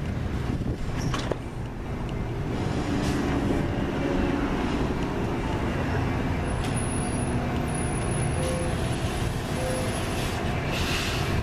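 Metra diesel push-pull bilevel commuter train at the platform: a steady low rumble, with a few sharp clicks about a second in and a brief hiss near the end.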